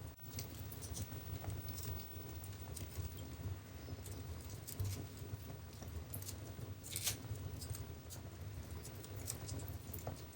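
Wood fire crackling in a fireplace: irregular sharp pops and snaps over a steady low rumble, with one louder pop about seven seconds in.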